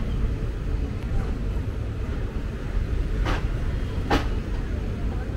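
Passenger train rolling slowly out of a station, heard from on board: a steady low rumble with two sharp knocks about a second apart a little after three seconds in.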